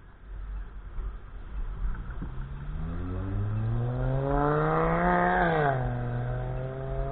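A motor vehicle engine accelerating, its pitch climbing for a few seconds, then dropping sharply at a gear change near the end and holding steady.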